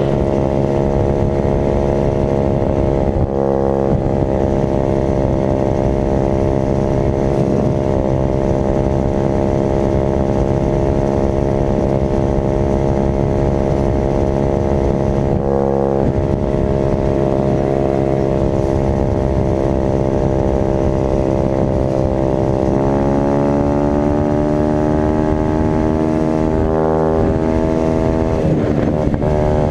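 Dirt bike engine running at steady revs, broken by a few brief drops in power, with the pitch climbing from about two-thirds of the way through and dipping and rising again near the end.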